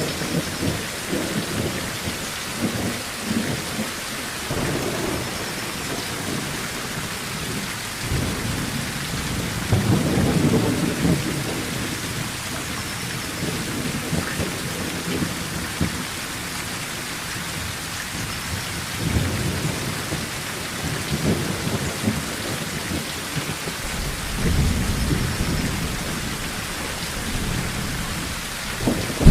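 Steady heavy rain drumming on a tin roof, with thunder rolling in low rumbles several times. The strongest roll comes about ten seconds in, and another builds near the end.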